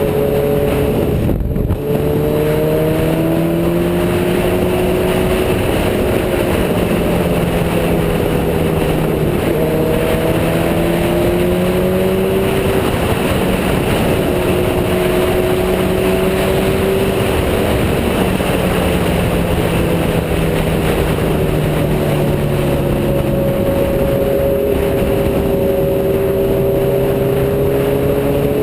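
Motorcycle engine running at cruising speed while riding, its note slowly rising and falling, with a gear change about a second and a half in that drops the pitch. Heavy wind rush on the microphone runs under the engine note.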